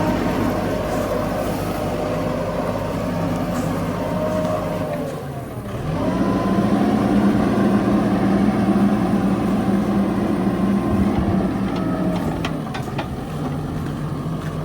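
Backhoe loader's diesel engine running steadily; about five seconds in its speed sags, then climbs back up and it runs louder, working harder. A few light knocks near the end.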